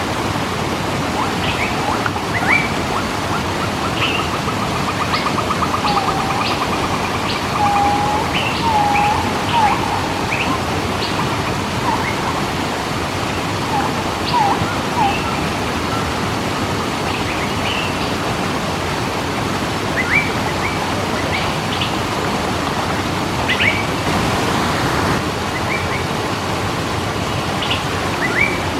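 Steady rushing of a waterfall, with birds calling over it: many short chirps throughout, a fast trill about two to four seconds in, and a few lower whistled notes soon after.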